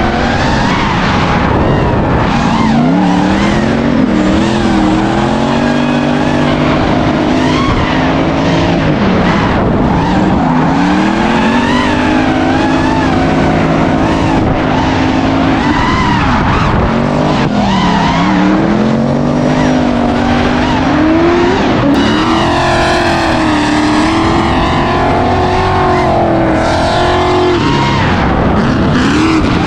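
Car engines revving hard, their pitch repeatedly climbing and dropping, over continuous tire squeal as the cars are driven hard on track.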